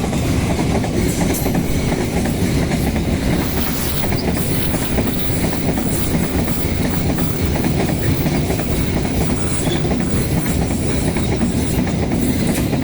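Coal freight train rolling past, its wagons' wheels clattering over the rail joints in a steady loud rumble.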